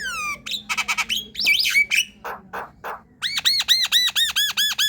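Javan myna singing a varied song: a whistled glide that rises then falls, a run of rapid clicking notes and harsh calls, then in the last second and a half a fast string of about a dozen repeated arched whistles.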